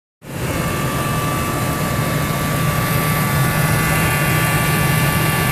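2001 Ford F-150's 5.4-litre V8 gas engine running steadily, with a steady high-pitched tone above the engine's rumble: the squeaky noise whose source the owner has not been able to find.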